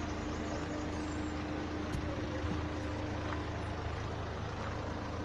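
A vehicle engine running steadily with an even, constant hum.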